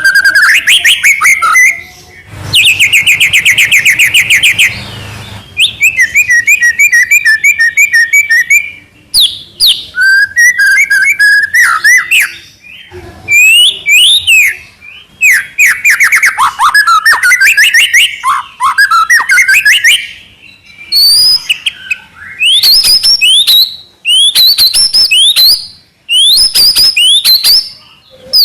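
Young white-rumped shama (murai batu) singing loudly: a string of varied phrases of fast trills, rising and falling whistles and rapid stuttering notes, each a second or few long with short pauses between.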